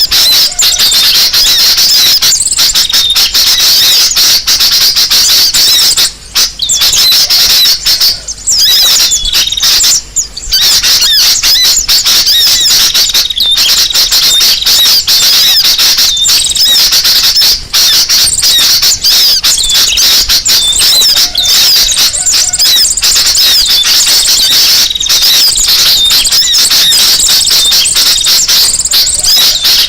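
Loud, dense chorus of many small birds twittering and chirping over one another, high-pitched and rapid, from a bird-lure (pikat) recording of noisy birds. It drops out briefly about 6, 8 and 10 seconds in.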